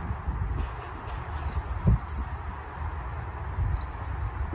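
Birds calling: one short, sharp high call about two seconds in and fainter chirps around it, over a low uneven rumble.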